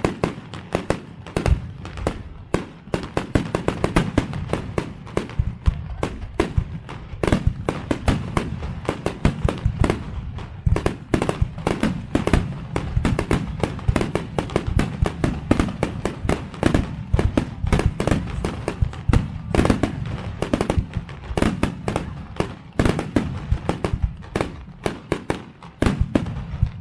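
Fireworks display: a rapid barrage of shells bursting, several bangs a second with crackling over a steady low rumble, easing briefly near the end.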